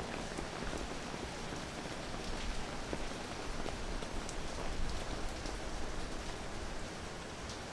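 Steady rain falling on leaves and wet paving, with many separate close drops ticking sharply through the hiss.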